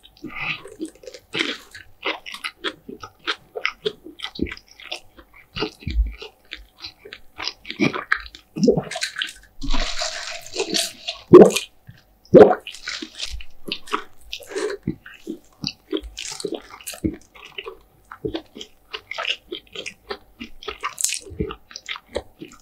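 Close-miked chewing and wet mouth sounds of someone eating KFC fried food, with many short crunches and clicks. A brief rushing noise comes about ten seconds in, and two louder bites follow about a second apart.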